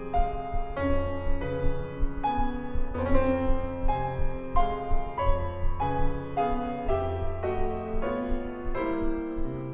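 Grand piano playing a solo classical passage: a steady succession of chords, a new one a little more than once a second, over held bass notes.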